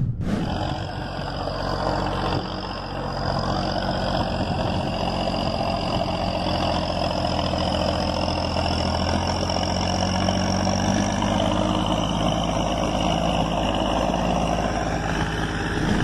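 Tractor engine running steadily at a constant speed, with a deep even drone and a faint high whine above it.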